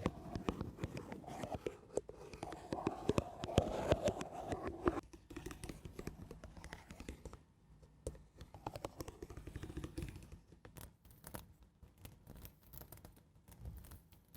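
Close-miked ASMR scratching and scraping, with fine scratchy strokes and small clicks. It is louder for about the first five seconds, then softer.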